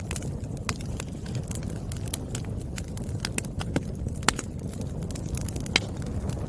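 Burning firewood crackling, with sharp pops every second or so over a steady low rumble from the fire.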